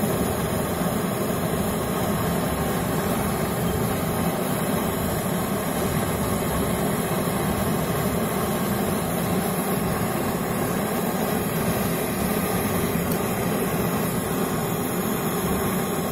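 Gas brazing torch flame hissing steadily while the refrigerant pipe joints of a replacement refrigerator compressor are brazed.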